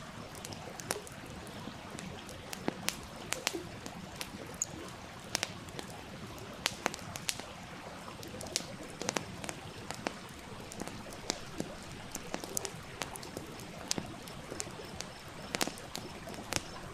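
Wood campfire crackling, with irregular sharp pops a few times each second, over the steady rush of a stream.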